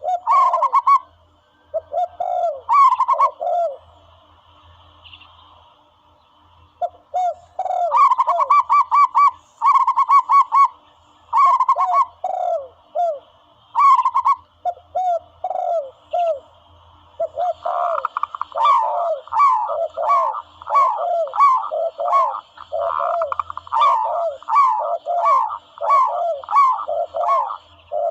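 Zebra doves calling: runs of short, quick cooing notes repeated in rapid series at two pitches, overlapping as if from more than one bird. There is a lull of a few seconds near the start, and the calling grows steady and dense in the second half.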